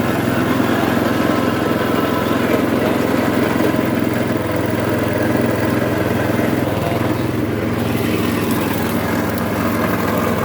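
Motor-driven sugarcane juice press running with a steady mechanical drone.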